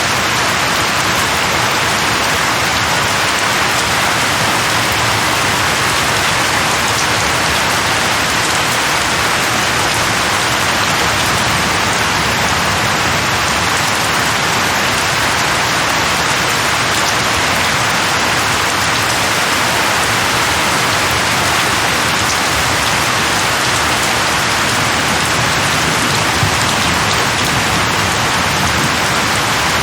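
Steady heavy rain falling on leaves, a constant even hiss of many drops.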